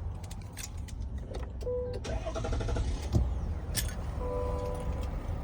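GMC Sierra 1500's Duramax diesel idling with a low, steady rumble. Several clicks and the truck's repeating electronic chime tones sound over it, the chime going steadily from a little past the middle.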